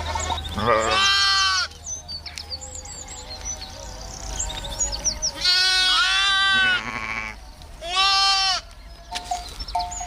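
Goats bleating: three loud, drawn-out bleats, the middle one the longest.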